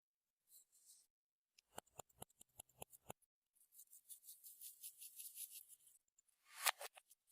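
Slime being worked by hand: a quick run of sharp clicks and pops, then a faint crackly hiss, and a louder squelch near the end.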